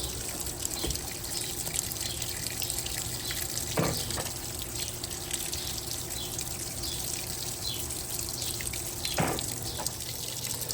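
Electrolux LTP15 top-loading washing machine filling with water: a steady stream running and splashing into the tub over a low steady hum, with two short knocks, about four and nine seconds in.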